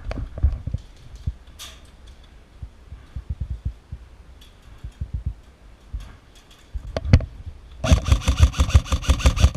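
Lancer Tactical LT-15 Gen 2 airsoft electric rifle firing a full-auto burst of about a second and a half near the end, a fast even rattle of shots. Before it come scattered low thuds and a single sharp click.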